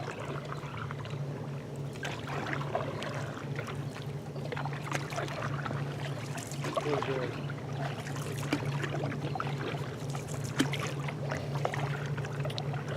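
Steady low drone of a towboat's diesel engines pushing barges upriver across the water, with light knocks and water sounds around the canoe.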